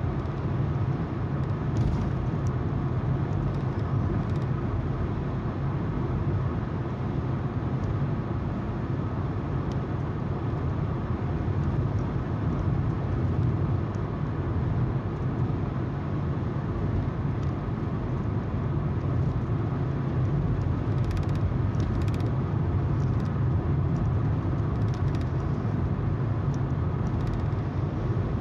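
Car driving at a steady speed: a continuous low hum of the engine under the steady noise of the tyres on the road.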